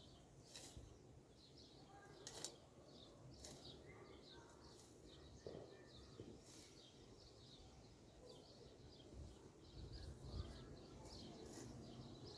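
Faint small birds chirping over and over above a low background rumble, with a few light clicks.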